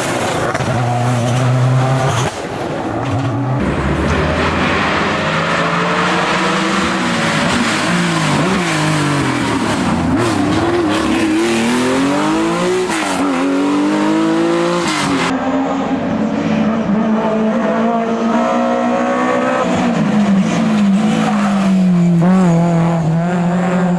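Historic rally car engine at competition speed on a special stage, the revs climbing and dropping again and again through the gears.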